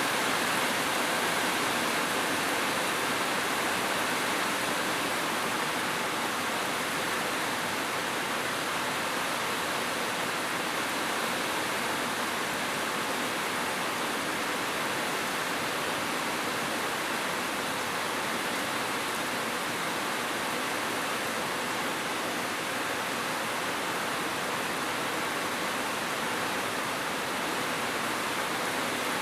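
Heavy rain falling steadily, an even hiss with no changes.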